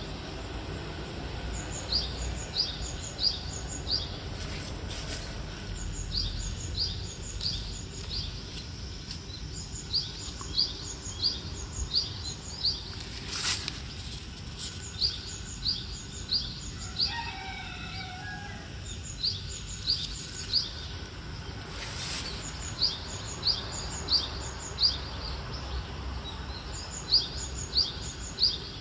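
Birds chirping at dawn: short, high, repeated notes in quick runs of three to five, coming every second or two over a steady low background hum, with a lower wavering call about halfway through and a couple of faint knocks.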